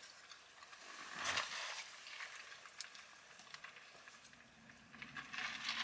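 Quiet eating and food-handling noises: a brief rustle about a second in, then scattered light clicks and crinkles that thicken near the end.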